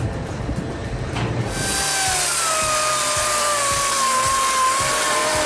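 Chainsaw cutting into wood, starting abruptly about a second and a half in: a loud, hissing cut with the engine note sinking slowly as the saw takes the load.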